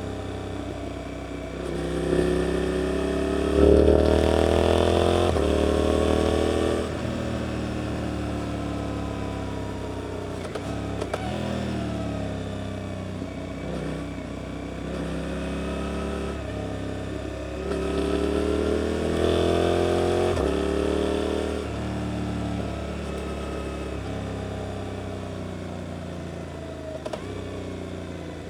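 Suzuki GSX-8S parallel-twin engine through an Arrows aftermarket exhaust, accelerating through the gears with a short drop in pitch at each upshift. This happens twice, loudest about four seconds in. Between the two pulls the pitch falls away as the throttle is eased off.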